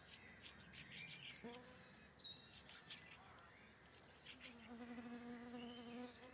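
Faint buzzing of a flying insect passing close to the microphone: a short buzz about a second and a half in, then a steady buzz for about two seconds near the end.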